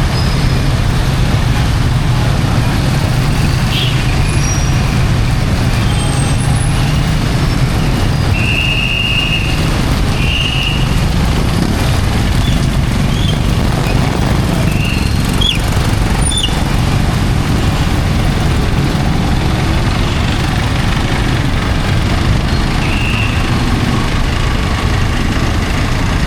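Heavy rain and street traffic: a steady, unbroken wash of noise with a strong low rumble, and a few brief high squeal-like tones.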